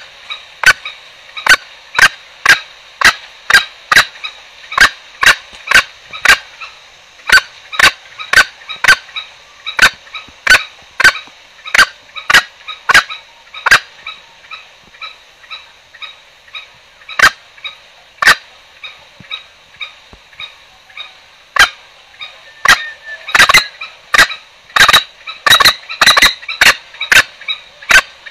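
Green junglefowl lure call: a long series of short, sharp calls, about two a second, thinning out for a few seconds midway and then coming in quicker clusters near the end. This is the kind of call trappers play to draw wild green junglefowl in.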